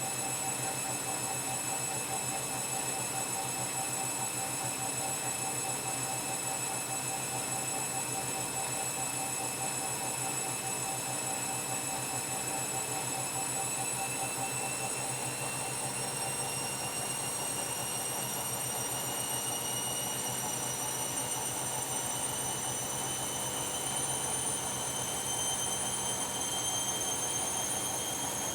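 Washing machine running, its motor giving a steady hum under a high whine that starts climbing in pitch about halfway through and keeps rising as the drum speeds up.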